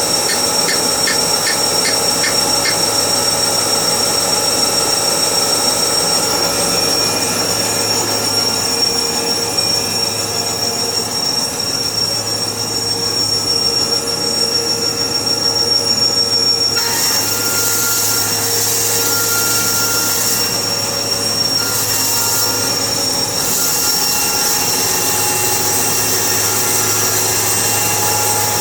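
Sawmill running: a loud, steady machine noise with a high whine, joined about halfway through by a harsher, brighter noise that comes and goes.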